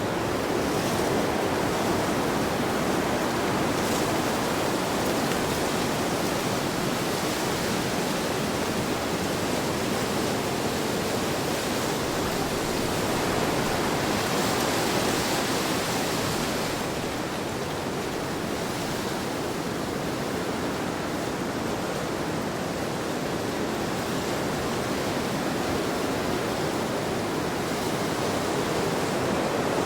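Heavy wind blowing as a steady rush of noise, the hiss brightening briefly about halfway through.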